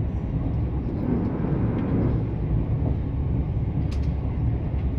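Passenger train running along the track, heard from inside the carriage: a steady low rumble that swells briefly about a second or two in, with a faint click near the end.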